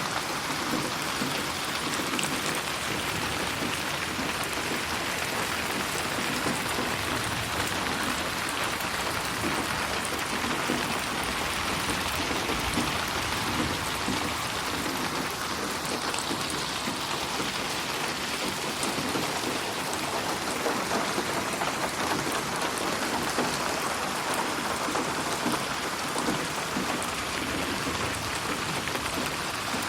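Steady rain falling, an even hiss with scattered drop ticks, mixed as 8D audio that moves around the listener.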